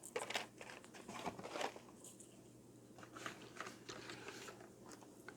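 Faint scattered clicks and rustles of die-cast toy trucks being handled and set down.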